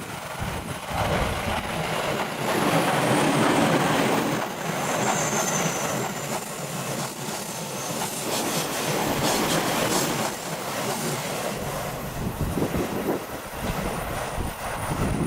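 Electric train passing on the Tokaido Main Line. The rush of its wheels on the rails builds quickly and is loudest a few seconds in, with rapid clacking over the rail joints and a brief high whine, then eases off near the end.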